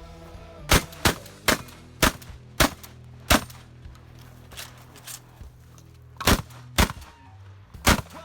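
Remington 870 pump-action shotgun fired in rapid succession: six shots in about three seconds, a pause with a few fainter clacks, then three more shots. Background music with a steady bass plays under the shots.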